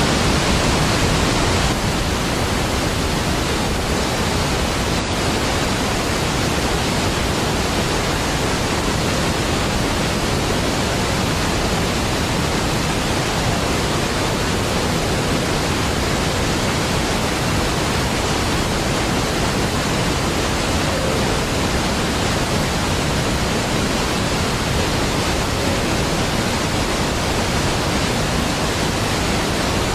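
A large waterfall's steady, even rush of falling water, with a deep low end, dipping slightly in level about two seconds in.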